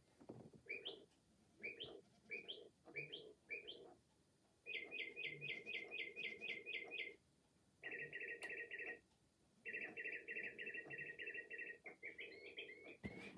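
Northern mockingbird song played by a bird clock: about six separate rising chirps, then three quick runs of rapidly repeated notes, with a few varied notes near the end.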